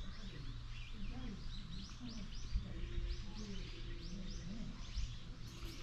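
Small birds chirping rapidly, several short high chirps a second, over a faint murmur of people's voices.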